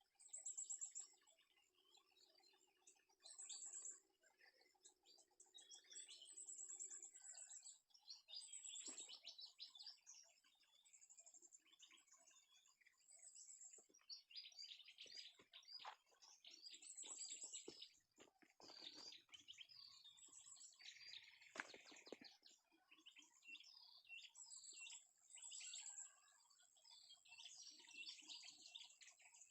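Faint birdsong in the forest: many short chirps and calls overlapping, with a high thin note repeating every second or two.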